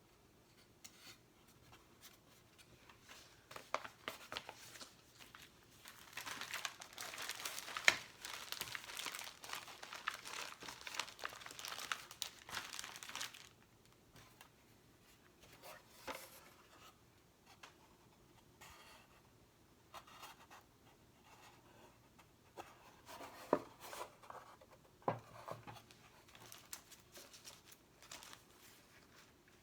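Stickers and their sheets being handled and peeled, with crinkling and small sticky tearing sounds. A dense, continuous stretch of crinkling fills the middle, with scattered light taps and crackles before and after it.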